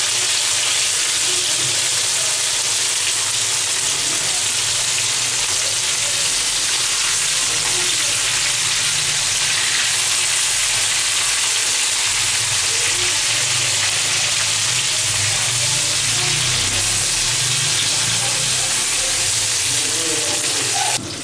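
Masala-coated fish pieces frying in hot oil in a pan: a steady, loud sizzle and spatter of bubbling oil, cutting off suddenly near the end.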